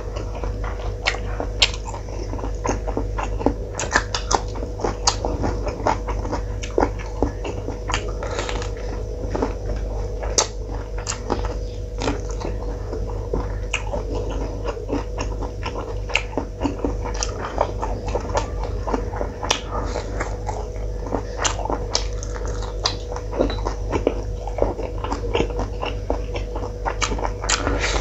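Close-miked mouth sounds of a person eating rice and curry by hand: wet chewing and lip smacks, with many short sharp clicks, over a steady hum.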